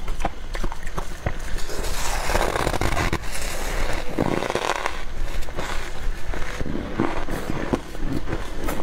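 Dry, squeaky deep-freezer frost crunching, with a dense run of crackles and clicks and louder noisy crunches about two and four seconds in.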